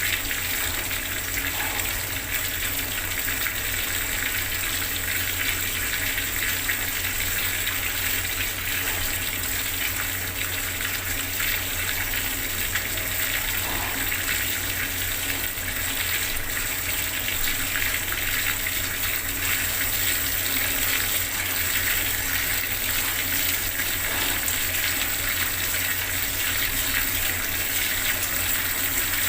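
Bathroom water tap running steadily, water gushing and splashing continuously.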